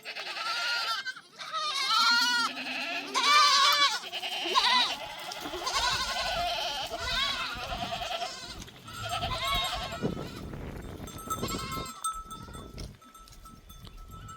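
A herd of goats bleating, many calls overlapping one after another. Goat bells ring in the second half.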